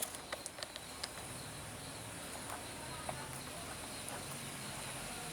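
A few light clicks and taps in the first second or so, then only a faint steady background hiss with a thin high tone.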